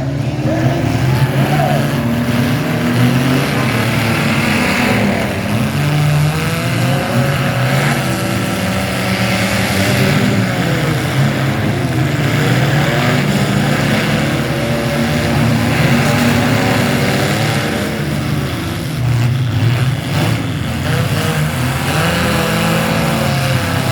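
Mini truck engines running and revving, their pitch rising and falling again and again.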